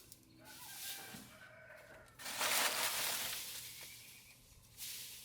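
Chickens calling, with a rooster crowing, followed about two seconds in by a louder burst of noise.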